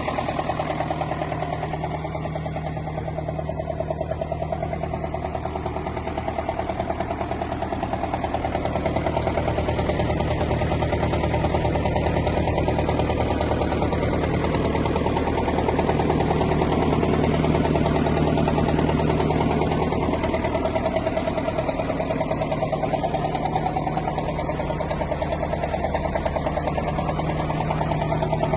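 Ferguson tractor engine running steadily with a rapid, even firing beat, rising a little in loudness partway through.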